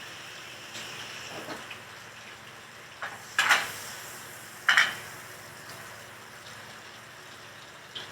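Kitchen cooking: a steady sizzle of food frying, with cookware clattering twice, loudly, about three and a half and five seconds in, and a few lighter clinks early on.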